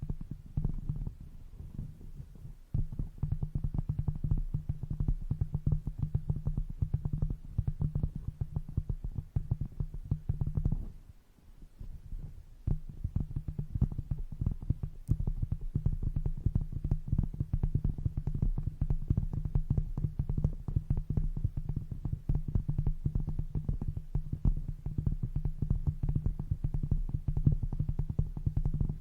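Makeup brush rubbed rapidly over the microphone, a dense, muffled scratching and rumbling. It stops briefly about eleven seconds in and then carries on.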